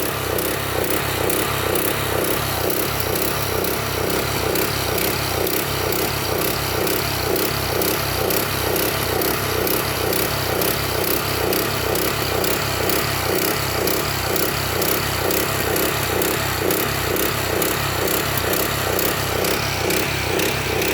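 Small engine running steadily at an even speed with a regular pulsing beat, driving a pump that fills a water tank.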